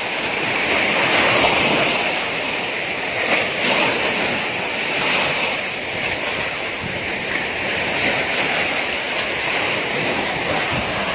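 Sea waves washing in the shallows with wind buffeting the microphone: a steady rushing that swells and eases.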